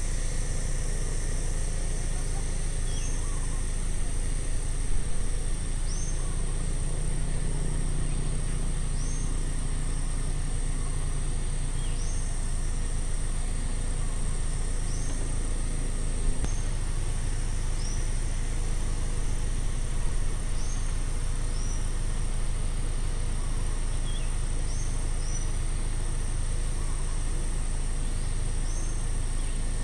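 Outdoor roadside ambience: a steady high insect drone, a bird repeating a short high falling note about every three seconds, and a steady low rumble of road traffic.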